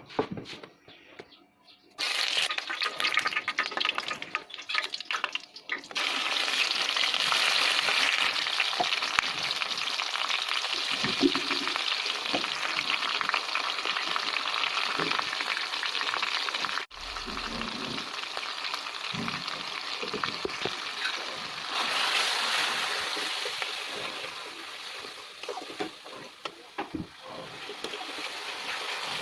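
Food frying and sizzling in hot oil in a cooking pot, with stirring. The sizzle starts suddenly about two seconds in and shifts in level at a few abrupt breaks.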